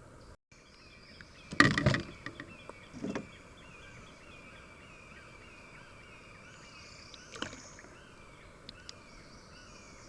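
Kayak paddling: a loud clatter of knocks and splashes about a second and a half in, and a smaller one about a second later. Under it runs a steady series of short chirps, about three a second.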